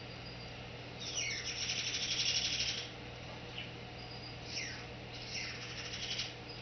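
Quaker parrot chattering: a downward-sliding squawk about a second in runs into nearly two seconds of buzzy, high chatter, then two shorter downward calls and more chatter near the end. A steady low hum sits underneath.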